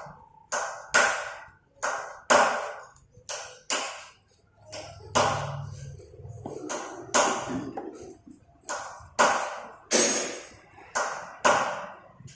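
A series of sharp metallic taps at irregular intervals, roughly one a second, each ringing out briefly.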